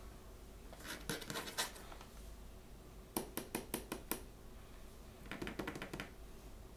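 Hands handling small packaging close to the microphone: three short bursts of crackling and sharp clicks, the middle one a quick run of distinct clicks.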